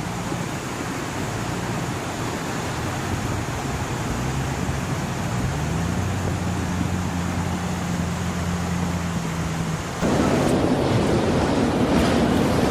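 Rushing floodwater, a steady roar of water noise with a low hum under it. About ten seconds in, the sound cuts abruptly to a louder rush.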